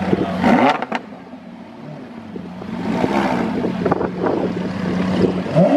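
Lamborghini supercar engine idling with a steady exhaust note, blipped into short revs about half a second in, around three seconds in, and again near the end.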